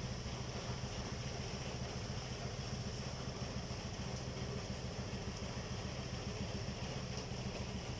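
An engine running steadily at an even idle, a low, unchanging hum.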